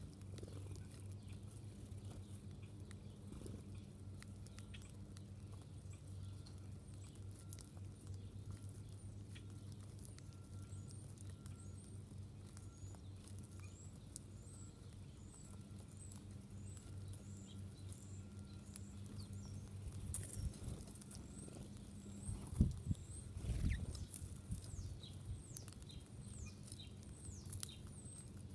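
Small birds giving short, high chirps, more often in the second half, with light pattering and scratching over a steady low hum. A cluster of knocks comes about three-quarters of the way through.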